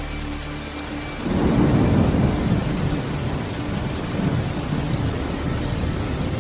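Steady rain with a clap of thunder breaking in just over a second in, its deep rumble rolling on loudly for several seconds.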